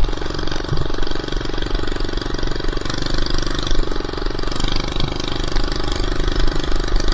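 Small four-stroke minibike engine running without a muffler under light, steady throttle while riding, with small dips and rises in pitch. It is running rough: it will not idle and stalls if the throttle is let off.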